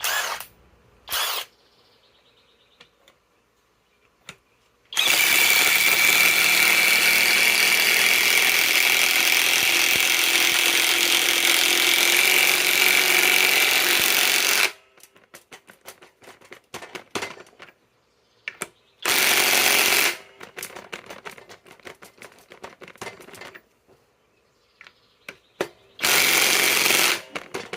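Cordless Kobalt mid-torque impact wrench driving an 8-inch lag screw. Two quick blips of the trigger come first, then a long run of about ten seconds of steady hammering. Two shorter bursts follow later, with scattered clicks between them.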